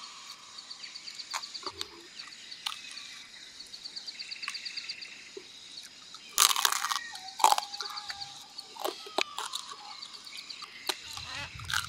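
Close-up chewing and crunching of roasted rat meat, with a cluster of loud crunches about halfway through and smaller clicks of chewing and handling around it. A rapid, evenly pulsed high chirping continues in the background through the first half.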